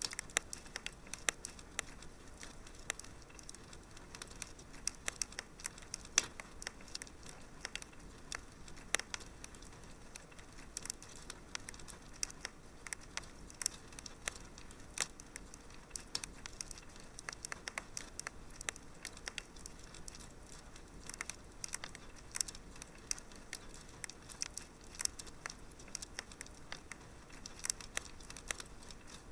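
Wood fire crackling in a fireplace: irregular sharp pops and snaps over a low steady hiss.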